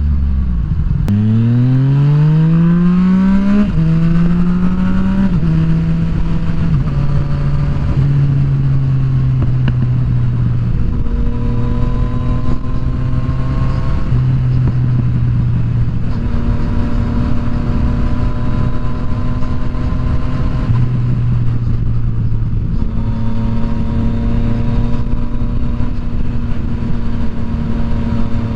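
Yamaha FZ-09's 847 cc three-cylinder engine pulling hard from about a second in with a quickly rising pitch, then shifting up through several gears, each shift dropping the pitch a step, before settling into a steady cruise with small throttle changes. Wind noise rushes over the microphone throughout.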